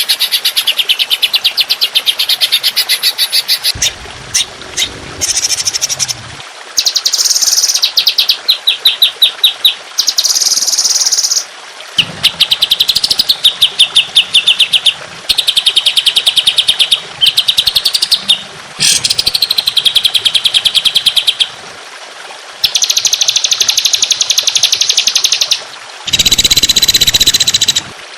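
Songbird song made of rapid trills: very fast runs of evenly repeated sharp notes, delivered in phrases of one to four seconds with brief pauses between them, the pitch shifting from phrase to phrase.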